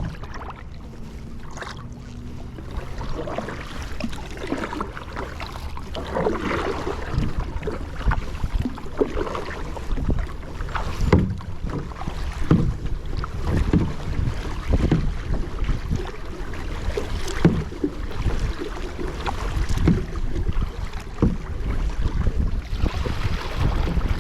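Kayak paddle blades dipping and pulling through the water in regular splashing strokes, with a low wind rumble on the action-camera microphone.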